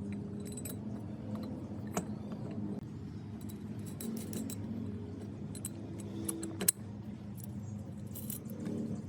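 Small metal parts clinking and tapping against each other in irregular light clicks, with two sharper knocks about two seconds in and near seven seconds, over a steady low hum.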